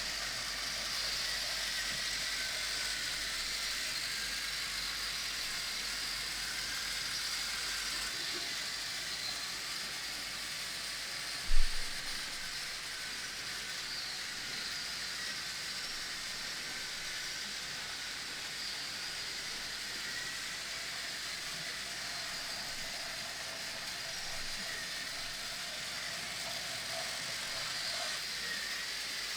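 Battery-powered Plarail toy trains running on plastic track: a steady motor-and-gear whirr with wheel rattle. A single short thump about a third of the way through is the loudest sound.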